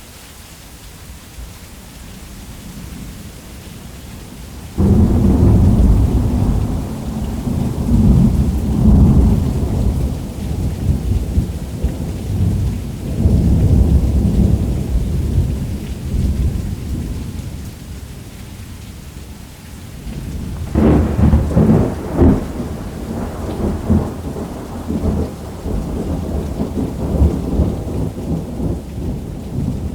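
Thunderstorm: steady heavy rain, with a sudden loud peal of thunder about five seconds in that rolls and rumbles for some fifteen seconds. A second crackling thunderclap comes about twenty seconds in and rumbles on.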